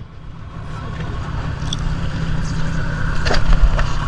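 Boat engine running with a steady low drone that grows a little louder, with a few sharp knocks about three seconds in.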